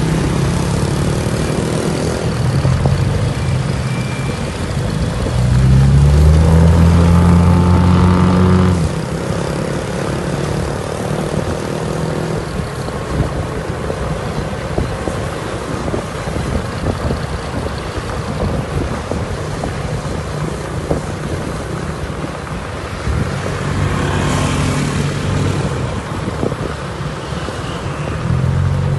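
Ford Mustang GT500's V8 engine through its exhaust, running and revving: the note climbs and holds high about six to nine seconds in, drops back to a lower rumbling run, and climbs again about twenty-three seconds in and once more near the end.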